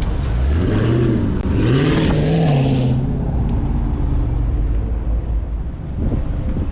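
Dodge car engine revved in a few quick blips, its pitch swelling up and dropping back in the first three seconds, then running at a steady idle.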